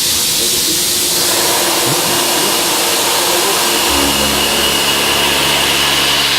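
CNC machining centre running a shoulder-milling cut with an Iscar LOGIQ high-feed milling cutter: a loud, steady hiss of spindle and cutting, with a steady hum joining about four seconds in.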